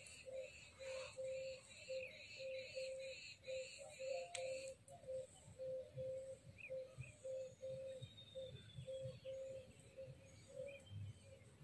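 A bird calling outdoors, repeating one low note about twice a second. A higher, busy chattering of other birds sounds behind it and stops about halfway through.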